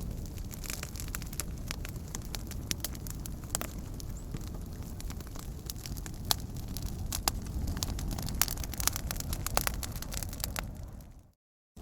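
Wood campfire burning, with a steady low rush and frequent sharp, irregular crackles and pops. The sound fades out to silence briefly near the end.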